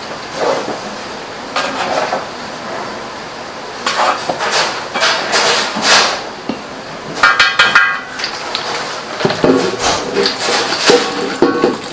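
Irregular knocking and clattering of hard objects in a working kitchen, with a brief ringing metallic clink about seven seconds in.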